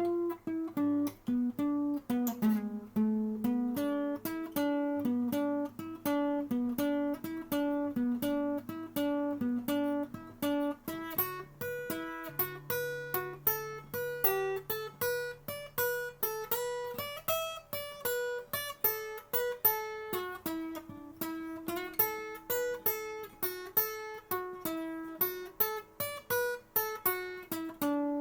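Acoustic guitar playing an instrumental piece: a steady run of picked notes, a few each second, over held bass notes, with no singing.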